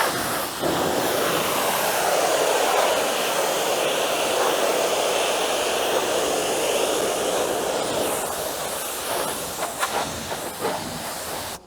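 Pressure washer wand firing a high-pressure water jet into a house gutter: a loud, steady hiss of spray that starts suddenly and cuts off suddenly near the end.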